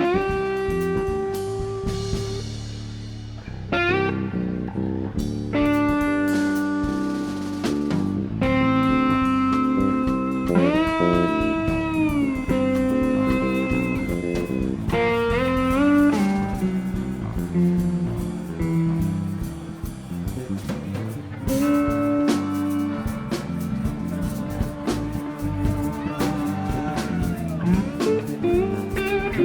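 Live blues-rock band music: an electric guitar lead of long held notes that slide up and down in pitch, over a drum kit and band accompaniment.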